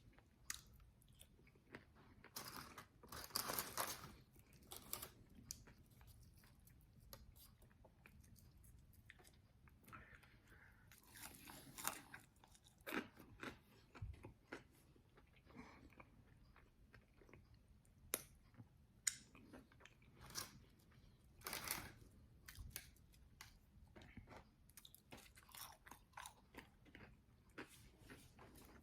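Biting, crunching and chewing of extra-well-done fried chicken wings, crisp skin cracking in irregular bursts with a few much louder crunches among quieter chewing.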